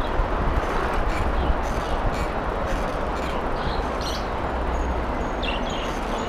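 Steady rumbling rush of wind over the microphone and road noise while riding a bicycle along a street.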